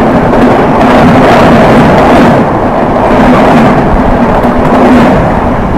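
Loud, steady rush of wheels and air as a passenger train of LHB coaches passes close on the adjacent track, heard from another moving train, with a low hum running under it.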